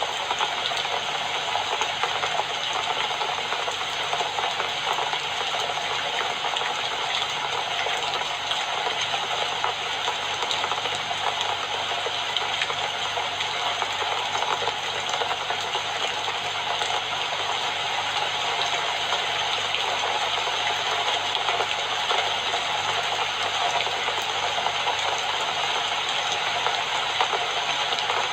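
Steady, dense rainfall hiss with a fine pattering texture.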